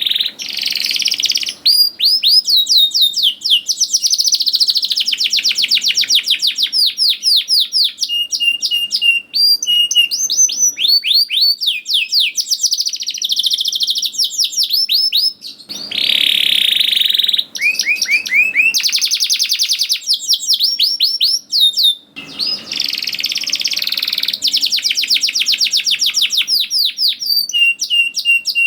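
Domestic canary in full, continuous song: long trills of rapid, evenly repeated falling notes, with short steady whistled tones and buzzy rolls in between, broken by a few brief pauses.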